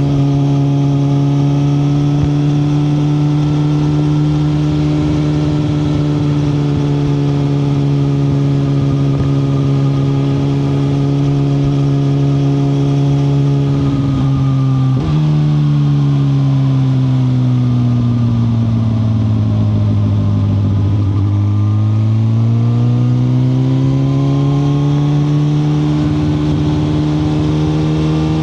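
2021 Suzuki GSX-R1000R's inline-four engine running under way at steady revs, then after a brief break about halfway the revs fall for several seconds as the bike slows, and rise again as it pulls away, settling near the end.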